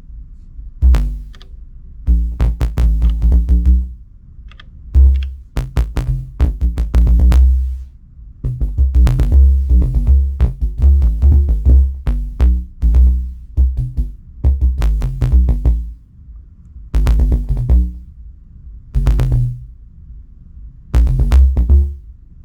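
Elektron Digitakt playing an improvised, off-grid electronic bass line with drum machine hits, in short stop-start phrases separated by brief pauses.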